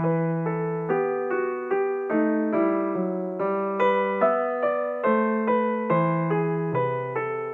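Background piano music: a gentle melody of struck notes over sustained bass notes, a new note roughly every half second, each fading before the next.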